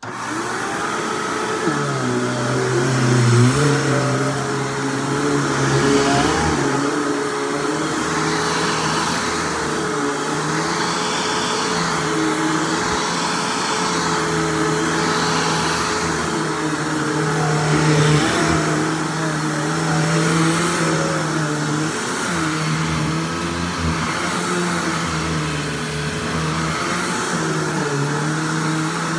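Hoover WindTunnel Plus upright vacuum cleaner switched on and running, very loud, its motor tone wavering up and down in pitch.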